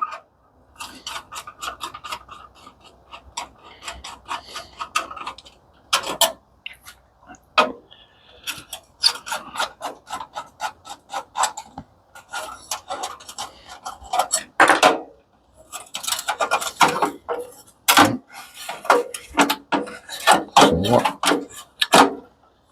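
Screws being worked out of the top of an industrial coffee maker around its warmer plates with hand tools, and the steel parts handled: irregular clicks, scrapes and light metal knocks, with a sharper knock about eighteen seconds in.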